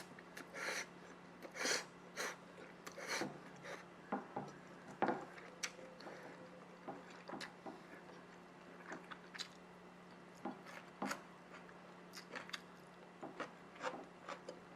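Scattered light clicks and taps of kitchen utensils, irregular and a second or so apart, over a faint steady hum.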